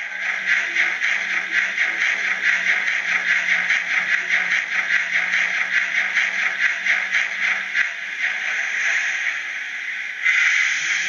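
DCC sound decoder in a Sango D52 model steam locomotive playing steam chuffing through its small speaker, a steady rhythm of about four chuffs a second that softens toward the end. A louder burst of steam hiss comes in about ten seconds in.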